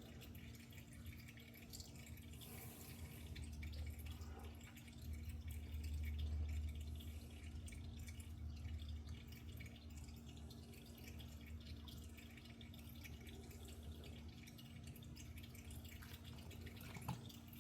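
Engine oil dripping and trickling into a drain pan, faint, with a low rumble swelling a few seconds in.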